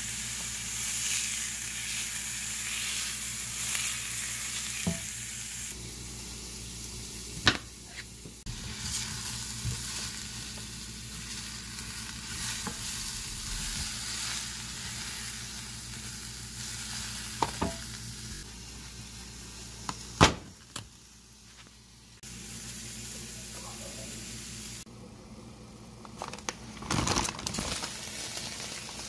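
Chopped onion and sliced mushrooms sizzling as they sauté in a pan, with a few sharp knocks of a spatula against the pan and a clatter near the end. The sizzle jumps up or down in loudness at several abrupt cuts.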